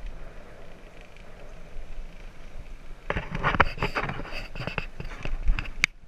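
Bicycle riding: steady wind and rolling noise, then from about halfway a run of sharp rattles and knocks as the bike jolts along.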